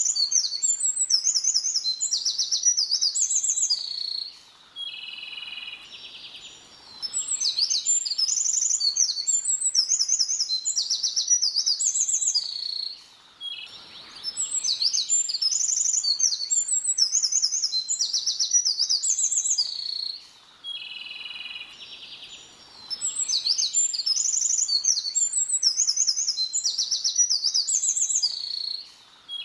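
A small songbird singing long, fast, varied phrases of high trills and whistles, each lasting about six seconds, with short pauses between them. A lower buzzy trill fills some of the pauses.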